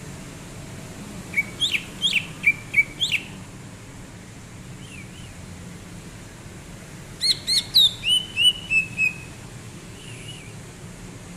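A cucak ijo (green leafbird) singing in two short bursts of quick, sharp whistled notes, one about a second in and one about seven seconds in, over a steady low background hiss.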